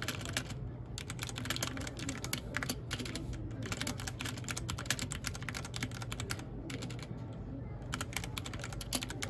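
Typing on a mechanical keyboard: fast runs of key clicks, with brief pauses near the start, around the middle and for about a second after six seconds in.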